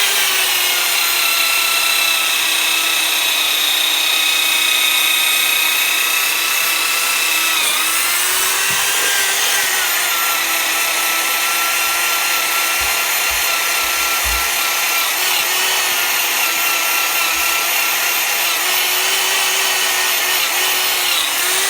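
Electric drill running steadily with a plastic brush attachment scrubbing burnt-on apple off a stainless steel pot: a steady motor whine over a harsh scrubbing hiss. The whine's pitch dips briefly about eight seconds in and again near the end.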